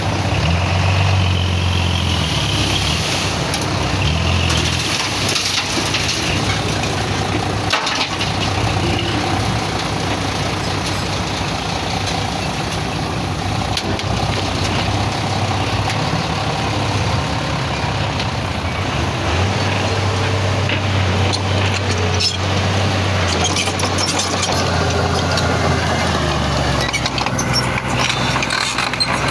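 Heavy diesel earthmoving machinery at work: a diesel engine running steadily loud, its low note rising and falling as the load changes, with a few scattered knocks and clanks.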